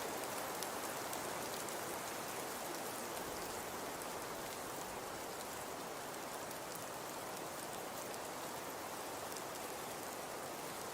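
Fireplace crackling steadily: an even soft hiss with many faint small pops.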